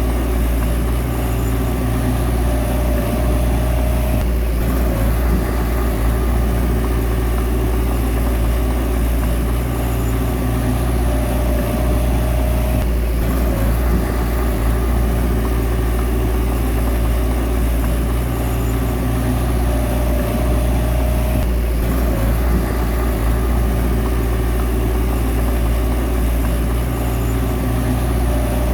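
Bulldozer's diesel engine running steadily under work. A higher whine joins in for a second or two about every eight or nine seconds.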